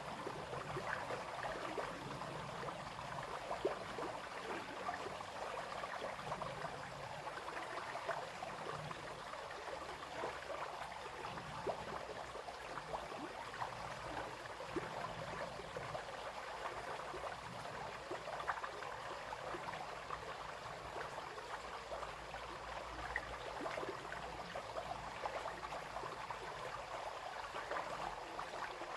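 Small brook flowing and babbling steadily, with many small splashes and trickles over a continuous water rush.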